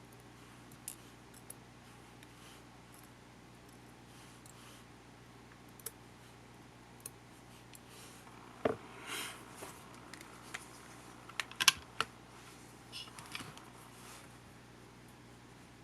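Scattered small clicks, taps and light scrapes of camcorder parts and small tools being handled during disassembly, sparse at first and busier in the second half, with a few sharper clicks there.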